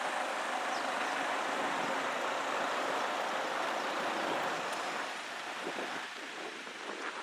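Class 175 diesel multiple unit rolling past, a steady rush of wheel and rail noise that fades away in the last couple of seconds.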